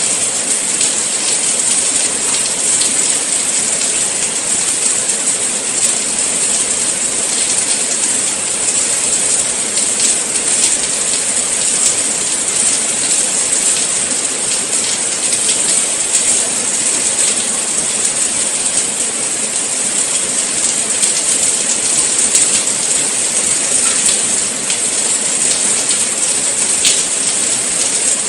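Steady rain falling, a dense hiss with many fine pattering drops.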